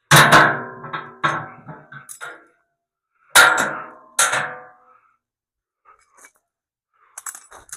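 Hard blows on steel, each ringing and dying away: a quick cluster of about four strikes in the first second and a half, then two more about three and a half and four seconds in.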